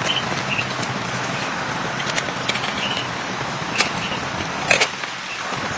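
Heavy rain falling steadily, with a few sharp taps about two, four and five seconds in.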